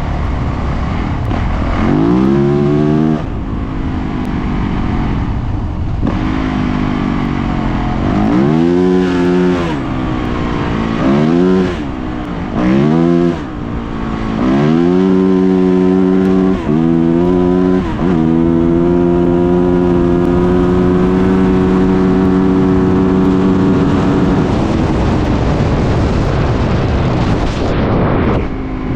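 Dirt bike engine revving hard and shifting up through the gears, its pitch climbing and dropping back several times. It then holds a steady high pitch for several seconds before easing off near the end.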